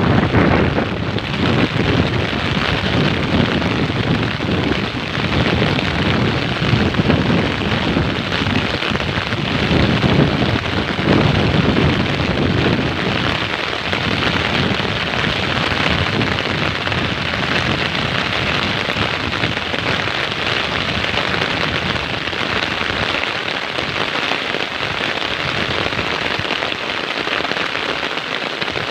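Heavy rain falling steadily, with a low rumble strongest through the first half.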